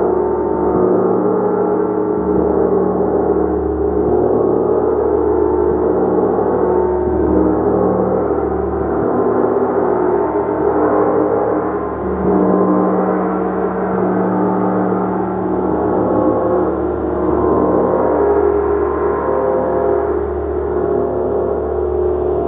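A gong played continuously: a dense wash of many overlapping sustained tones that swells and eases every few seconds, with deep low tones rising and fading beneath.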